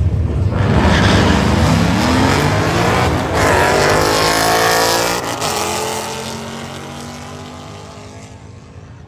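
A car engine accelerating hard, its pitch climbing through one gear, breaking briefly at a shift about three seconds in, then climbing again. It then fades away as the car pulls off.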